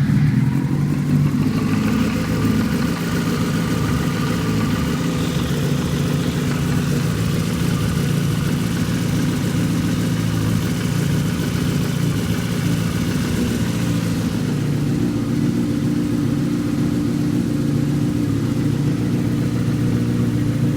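Yamaha FZ6 N inline four-cylinder engine idling steadily on a cold start, with a ticking noise from the engine that fades once it warms up. The cause is unknown to the owner.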